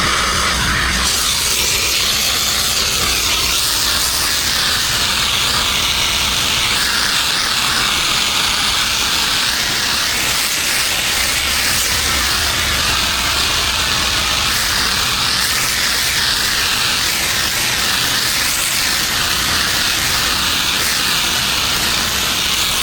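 High-pressure water spraying onto concrete from a pressure washer, a loud steady hiss, with the low hum of the machine's engine underneath.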